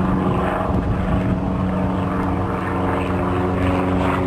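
Electric RC pylon-racer airplane, a Great Planes Cosmic Wind Minnow on a brushless outrunner motor swinging a 13x13 propeller, flying past at speed with a steady, even-pitched propeller buzz.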